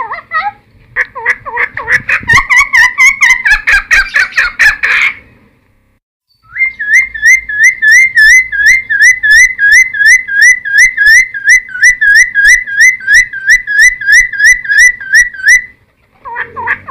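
Cucak timor singing loudly: a varied phrase of quick chattering whistles, a short pause, then a long run of the same hooked, upslurred whistle repeated about three times a second, stopping shortly before the song starts again near the end.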